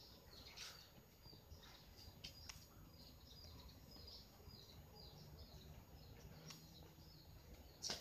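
Faint chirping of small birds, many short high chirps in quick succession, over a near-silent background, with a few soft clicks and one sharper tap near the end.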